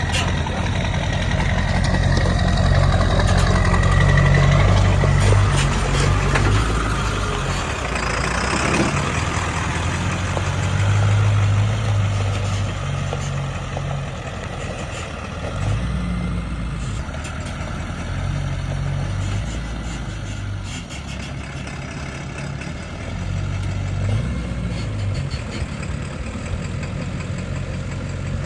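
A truck engine running, a low uneven rumble that goes on throughout with some rise and fall.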